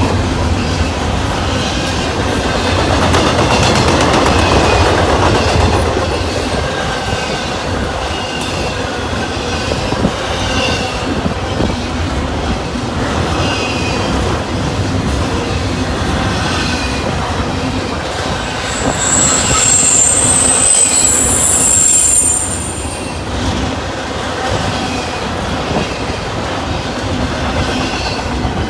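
Double-stack intermodal freight train's well cars rolling past, a steady rumble of steel wheels on the rails. About 19 seconds in, a high wheel squeal rises over it for three or four seconds.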